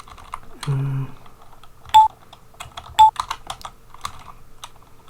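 Computer keyboard typing, keys clicking at an uneven pace, while notes are entered into a music tracker. Two short high notes about a second apart are the loudest sounds, with a brief low note about a second in.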